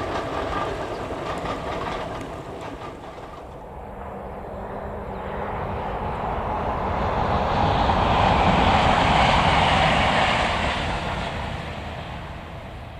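A diesel locomotive's engine running steadily, cut off after about three and a half seconds. Then a rushing sound of a passing train swells to a peak and dies away.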